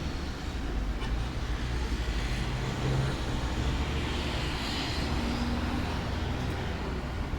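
Steady outdoor rumble, like distant motor traffic, with a faint engine tone rising out of it briefly near the middle.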